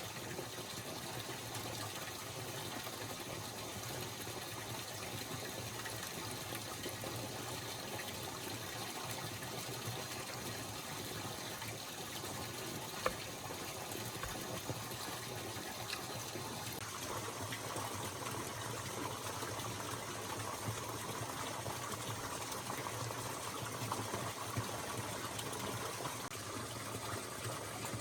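Steady running water, a continuous gushing trickle; its sound brightens a little partway through. A single sharp tap is heard about halfway.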